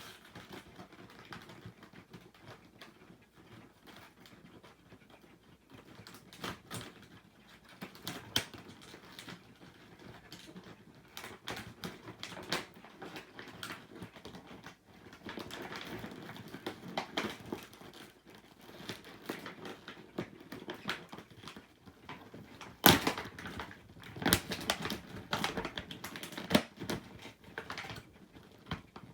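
Packaging being handled and pulled apart: rustling and crinkling with many small clicks, and a few sharper knocks later on.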